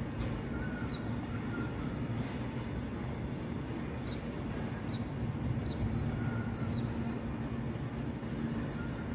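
Fuel tank wagons of a freight train rolling past: a steady rumble of wheels on rail with a steady low hum. A few short, high, falling chirps sound over it.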